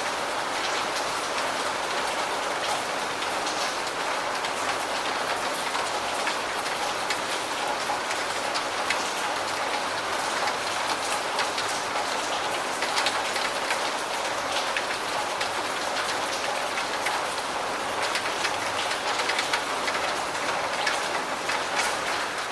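Steady rain falling, with many individual raindrops hitting a surface.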